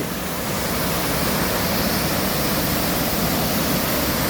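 Waterfall close by: a steady rush of falling water, with no let-up.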